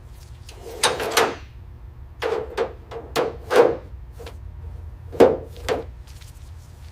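An irregular series of about eight sharp knocks, like hammer or tool strikes, each with a short hollow ring.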